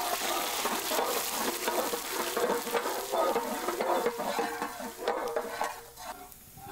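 Finely chopped ginger and garlic sizzling in a large metal pan of hot oil, stirred with a metal ladle that clicks against the pan. The sizzling gets quieter near the end.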